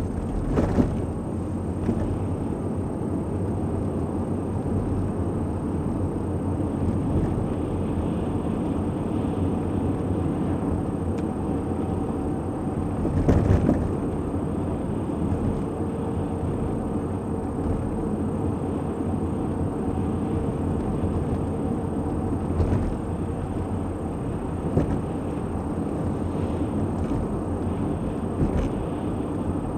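Car driving along a road: steady road and engine noise, with a brief knock about a second in and a louder one about 13 seconds in.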